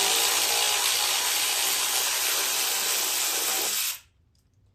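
Power tool running steadily as it spins out an 8 mm bolt on a riding mower's engine shroud, a hissing whir that stops abruptly about four seconds in.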